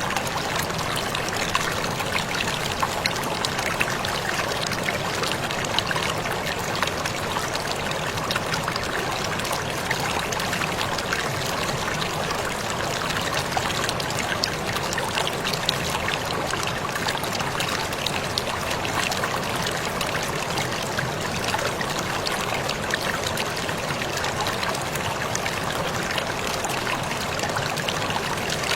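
Waterfall splashing steadily: an even rush of falling water, peppered with many small, sharp droplet splashes.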